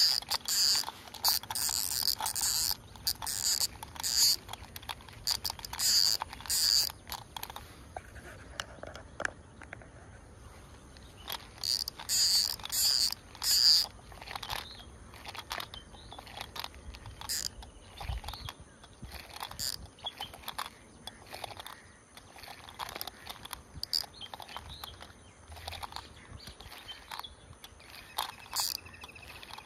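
A bird calling over and over with short, sharp, high-pitched chirps, in quick runs during the first several seconds and again near the middle, then more scattered.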